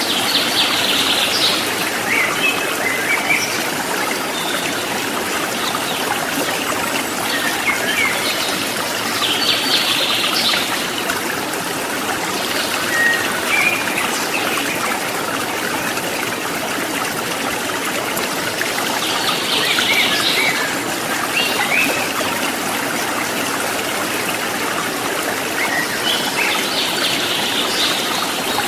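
Water trickling and babbling steadily, with a bird calling in short chirping phrases about four times.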